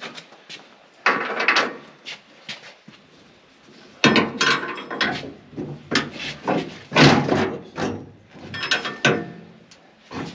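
Irregular metal clanks, knocks and scrapes of hand tools and bolts against the steel feederhouse floor of a John Deere combine as the holes are lined up for bolting. There is one burst about a second in, and denser clattering from about four seconds on.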